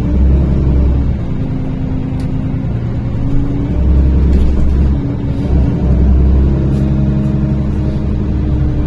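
NefAZ-5299 city bus driving, heard from inside the cabin: a steady engine drone over a heavy low rumble, rising in pitch right at the start as it gathers speed.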